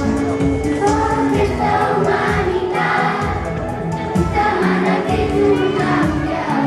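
Group of voices singing a pop-style song together over a backing track with a steady beat.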